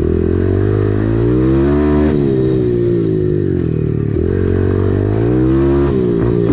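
Dirt bike engine with an automatic clutch, being ridden: it revs up, drops sharply about two seconds in, climbs again, drops around four seconds in, and rises once more near the end.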